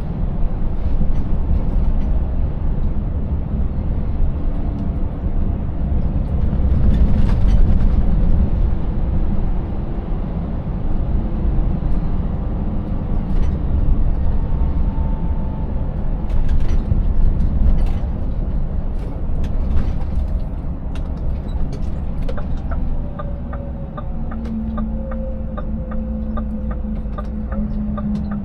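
Scania 590S V8 truck running with a steady low rumble, scattered knocks and rattles. In the last few seconds a steady ticking of about two a second starts as the engine note settles.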